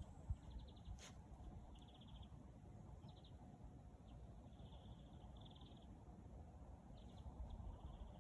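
Faint outdoor ambience with short, high, rapidly pulsed chirping trills from small animals, repeating every second or two over a low steady rumble; a single soft click about a second in.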